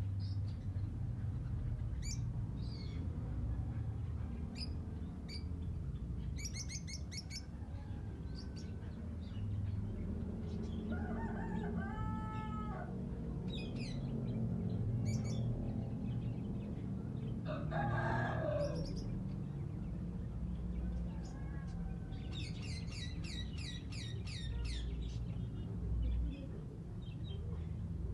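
Caged birds calling: a rooster crows in the middle, about 11 s and again about 18 s in, and small birds give short chirps and fast high trills, with two longer trills near the start and toward the end, over a steady low background rumble.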